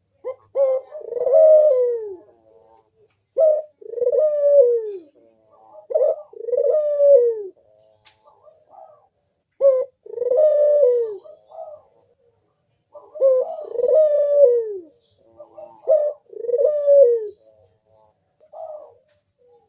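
Barbary dove (burung puter) cooing steadily: about six repeated coo phrases, each a short note followed by a longer, falling coo.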